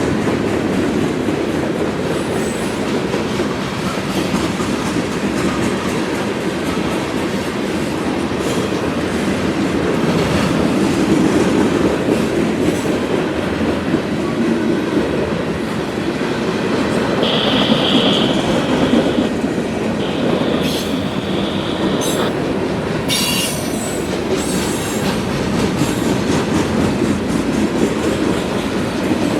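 Freight train cars rolling past on the rails with a steady rumble of wheels. A high-pitched wheel squeal sounds twice, a little past halfway, followed by a few short screeches.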